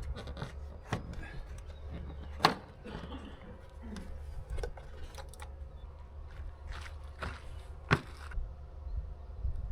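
A series of irregular sharp knocks and clicks, two of them much louder than the rest, over a steady low hum.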